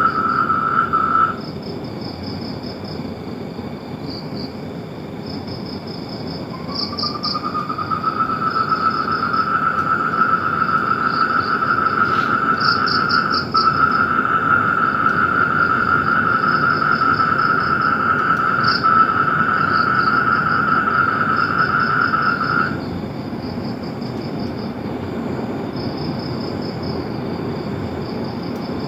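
A frog's long, steady trill: one ends about a second in, and another begins with a slight rise about six and a half seconds in, holds for about sixteen seconds, then stops abruptly. High, rapidly pulsing insect chirps continue throughout.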